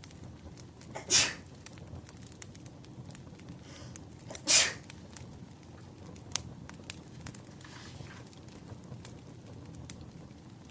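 Burning firewood crackling steadily with many small sharp pops. Two short, loud, breathy bursts stand out, about a second in and again about four and a half seconds in.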